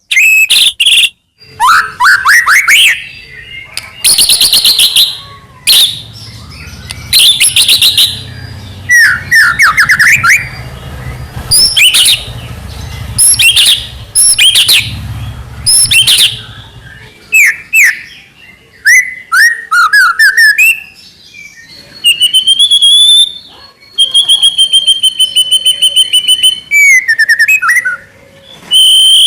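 White-rumped shama (murai batu) singing loudly in full, varied song: rapid chattering runs, clicks and sweeping whistles, broken by short pauses. Near the end it holds long whistled notes under fast trills.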